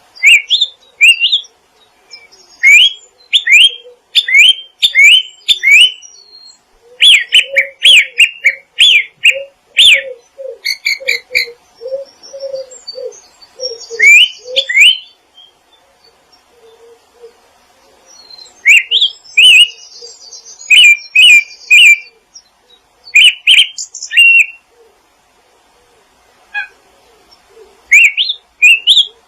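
Songbirds chirping in phrases of quick rising notes, several a second, broken by pauses of one to a few seconds, with shorter low notes underneath.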